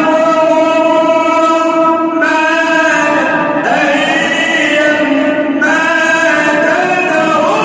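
A male reciter chanting the Quran in melodic tajweed style, holding long drawn-out notes with ornamented turns in pitch, in phrases that change about two and five and a half seconds in.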